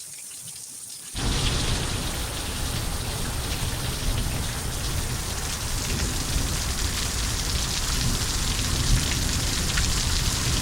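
Heavy rain pouring down in a thunderstorm downpour, a steady dense hiss of falling and splashing water. It cuts in suddenly and loud about a second in, after a fainter watery sound.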